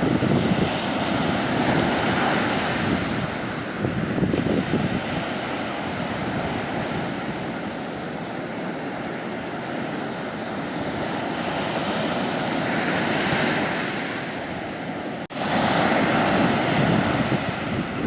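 Sea waves breaking and washing up the beach, swelling and easing in turn, with wind buffeting the microphone. A brief dropout about three-quarters of the way through, then the surf comes back louder.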